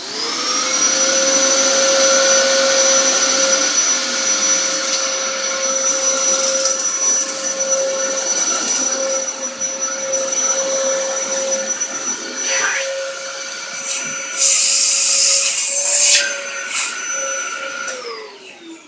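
Vacuum cleaner switched on, its motor spinning up to a steady high whine with a rushing of air. About fifteen seconds in there is a louder hiss lasting a second or two. Near the end it is switched off and the whine falls away.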